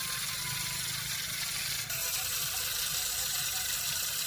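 Tractor diesel engine running steadily under a strong, even hiss, with an abrupt cut in the sound about two seconds in.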